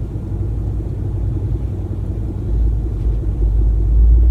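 Low, steady rumble of a car idling, heard from inside the cabin; the deep rumble grows louder about two and a half seconds in.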